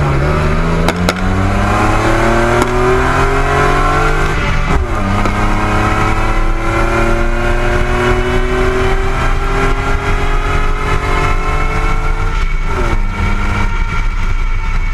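Supercharged Nissan Pathfinder V6 engine under hard acceleration, its pitch climbing steadily through each gear, with two upshifts where the revs drop suddenly, about five seconds in and again near the end.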